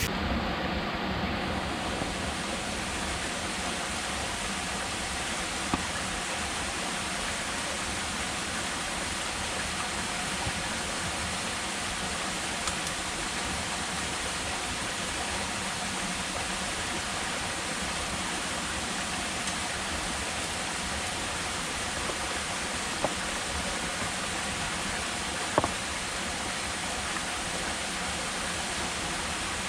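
Steady rain falling in a forest, an even hiss with a few sharp drips ticking through it.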